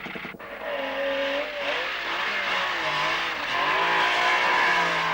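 Rally car engine revving, its pitch rising and falling repeatedly as the car is driven hard.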